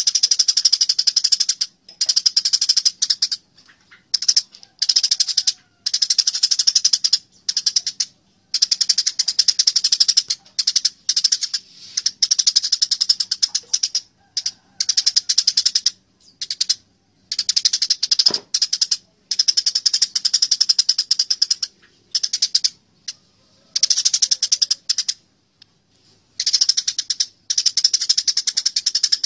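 Eurasian tree sparrows chattering in an agitated, fighting display: bursts of very fast, harsh chirping, each lasting about half a second to two seconds, broken by short pauses.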